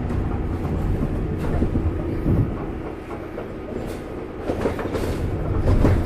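Scania N94UB double-decker bus heard from inside on its top deck while on the move: a steady low engine and road rumble with the body and fittings rattling and knocking now and then. The rumble eases a little around the middle.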